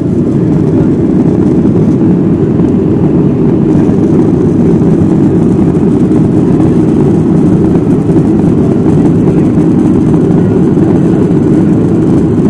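Steady, loud low rumble and rush of a Boeing 737-700's jet engines and airflow, heard inside the passenger cabin.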